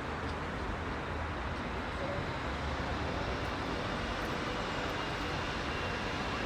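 Heavy rush-hour road traffic: a steady, dense wash of many vehicles' engines and tyres with a low rumble.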